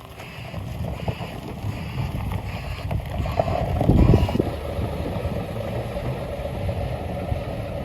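Wind buffeting the microphone outdoors: a loud, gusty low rumble that swells to its loudest about four seconds in.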